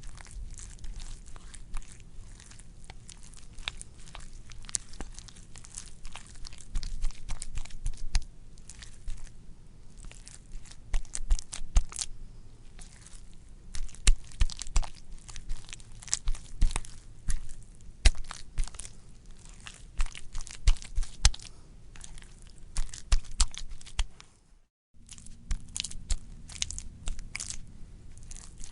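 Wet, squishy squelching: a dense, irregular run of sharp crackles and pops over a low rumble, with a brief drop to silence about 25 seconds in.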